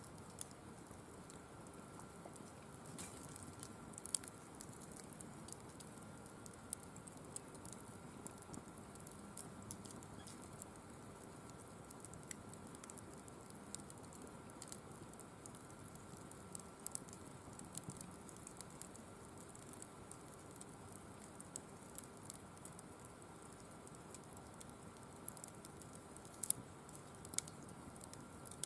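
Firewood burning in a wire-mesh fire pit: faint, irregular crackles and small pops, a few louder snaps among them.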